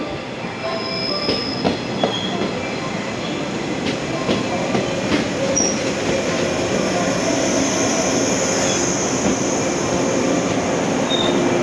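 An electric train, the Okayama depot's A14 set, moving along the platform: steady running noise that grows louder, with sharp wheel clicks over the rail joints and a few short, high wheel squeals.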